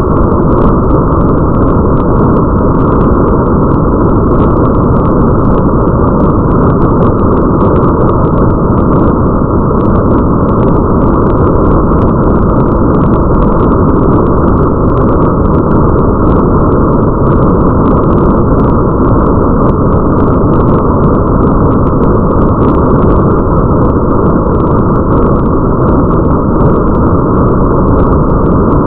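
Steady, muffled rain ambience: a dense, deep hiss with faint scattered drop ticks above it.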